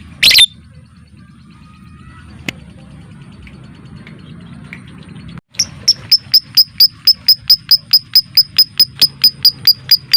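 Lovebird giving a long run of sharp, evenly repeated high chirps, about five a second: the rapid chattering 'ngekek' call. A single loud call comes just after the start, and the run begins about halfway through.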